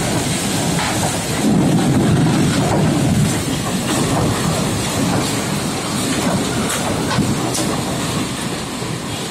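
Strong wind blowing in gusts, with a stronger gust from about one and a half to three seconds in and a few light ticks over it.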